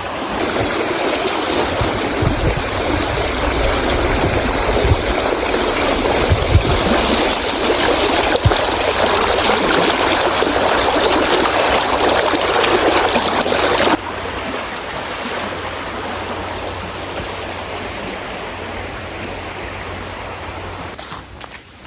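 Heavy rain falling hard, a dense steady rushing hiss of water. It changes abruptly about half a second in and again around 14 seconds in, where it becomes quieter.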